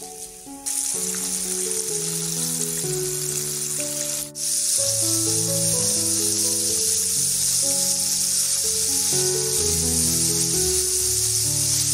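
Food sizzling in hot frying oil, a steady hiss that starts abruptly about half a second in and breaks off for a moment near the middle, under background music of sustained notes.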